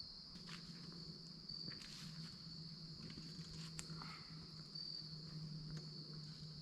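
Crickets chirping in a steady, faint, high-pitched chorus, with a steady low hum underneath and a few soft clicks.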